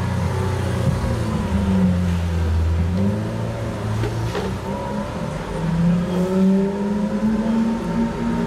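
Supercar engine running and revving. A deep, strong engine note drops away about four seconds in, then the pitch climbs again.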